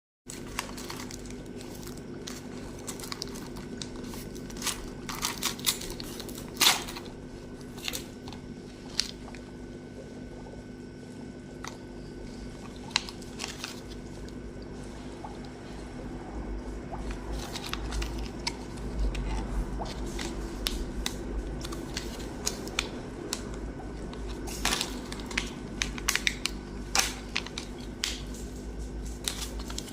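A steady low hum with scattered sharp clicks and light handling noises over it; the low rumble grows stronger about halfway through.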